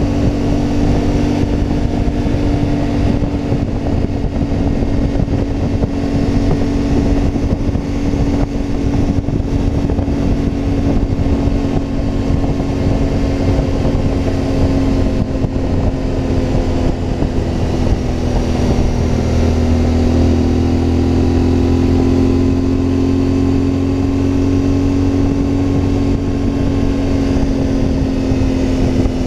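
CFMoto 450MT adventure motorcycle's parallel-twin engine running steadily while riding, its pitch drifting a little higher about two-thirds of the way through.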